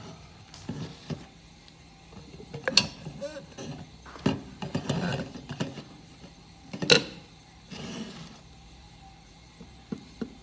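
Handling noise of objects being moved about: irregular clicks, rattles and scrapes, with two sharp knocks, one about three seconds in and one about seven seconds in.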